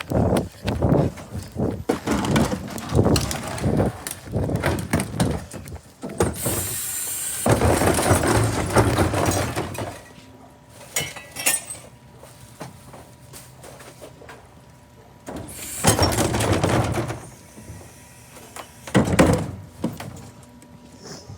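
Trash being tipped into a rear-loading garbage truck's hopper: crashing and clattering with breaking glass, loudest about six to ten seconds in, then two shorter crashes near the end.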